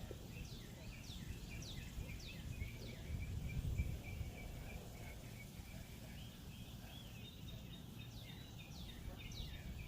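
Wild birds chirping and calling, with many short notes that quickly sweep down in pitch, over a low outdoor rumble.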